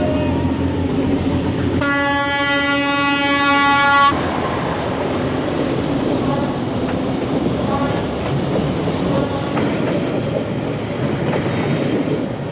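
A train passing close by: its horn sounds in one blast of about two seconds, a couple of seconds in, over the rumble and clatter of the wheels and wagons, which carries on steadily afterwards.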